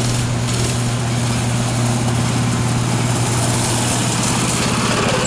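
Small single-cylinder engine of a 5-horsepower minibike running at a steady speed, its pitch wavering a little near the end.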